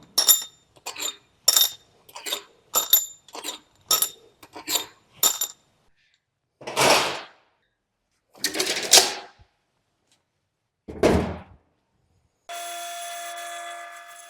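Small metal engine parts clinking, about two sharp ringing clinks a second for the first five seconds, then three longer rasping scrapes of metal on metal. Near the end an electric power tool starts up and whirs steadily.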